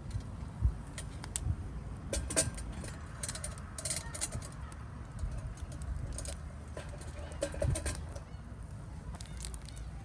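Scattered clicks, taps and knocks of objects being handled, a few louder knocks among them, over a steady low rumble.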